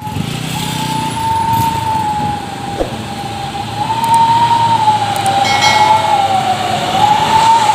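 A siren-like wailing tone: one high note held throughout and wavering slowly up and down in pitch, over a low rumble.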